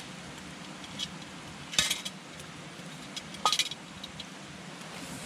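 Wood fire crackling: a steady hiss broken by sharp pops, the loudest a little under two seconds in and a quick run of pops about three and a half seconds in.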